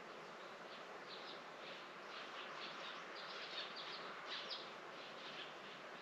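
Small birds twittering in a quick, irregular run of short high chirps over a steady faint hiss, with a few louder chirps near the middle.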